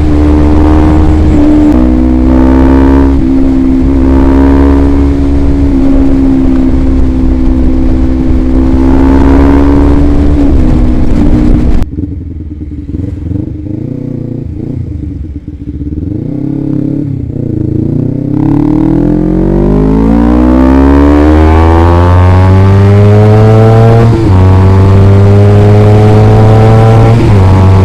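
Motorcycle engine breathing through a DX Generation Sphere Oval aftermarket exhaust, running at steady revs, then the throttle closes about twelve seconds in and the sound drops and sinks in pitch. It then picks up again with a long rising pitch, a brief dip near the end (a gear change), and settles into steady higher revs.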